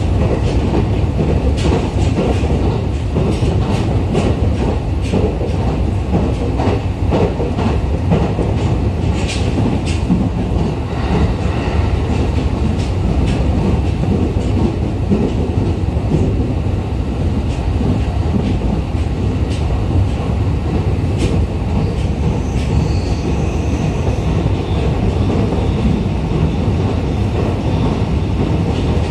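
Cabin running noise of a JR East E501 series electric train at speed: a steady low rumble with irregular clicks of the wheels over rail joints.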